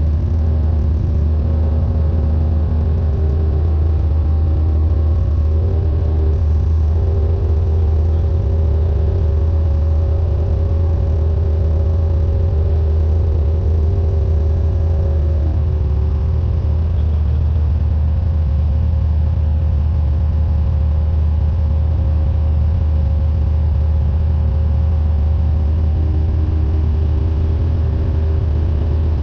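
Cessna 172N's four-cylinder Lycoming O-320 engine and propeller running at steady power, a constant loud drone with a deep hum and fixed higher tones above it.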